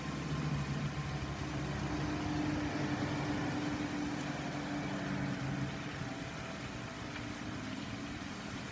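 Steady rain hiss with a motor vehicle's engine running low underneath, the engine fading out about six seconds in.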